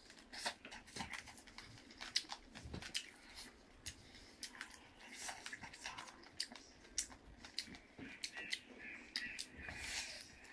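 Close-up eating sounds: a person chewing spicy noodles and momos, with a run of quiet, wet mouth clicks and smacks.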